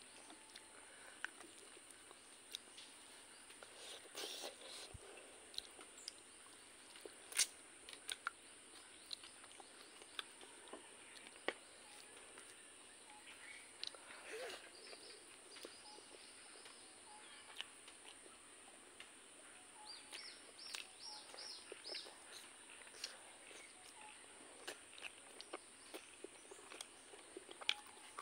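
Close-up eating sounds: chewing, with frequent short mouth clicks and smacks, as pork and rice are eaten by hand. A steady high insect hum runs underneath, with a brief run of about five bird chirps around twenty seconds in.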